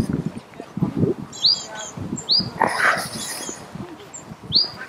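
A bird calling three times, a short, high, upswept note each time, over irregular soft thuds of footsteps.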